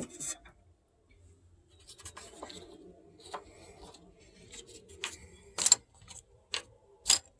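Small resin model parts being handled: soft rubbing and scraping with a few sharp clicks, the loudest about five and a half seconds in and another near the end.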